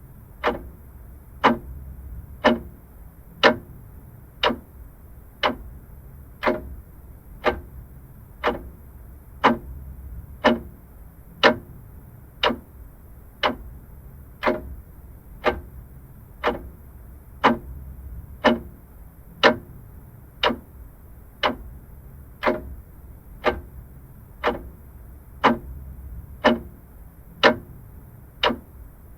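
Vintage mechanical clock ticking steadily, one sharp tick about every second.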